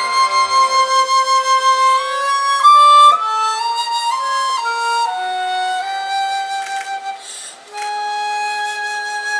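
Flute playing a slow melody of held notes over other sustained instrumental notes in a symphonic ensemble, with a loud high note about three seconds in.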